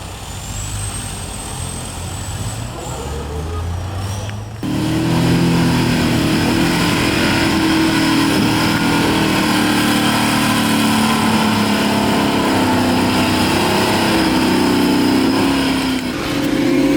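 Off-road 4x4 competition vehicle engine running under load. Its pitch wavers up and down. A little over four seconds in, it jumps abruptly to a much louder, fuller engine note, with a thin high whine over the quieter opening part.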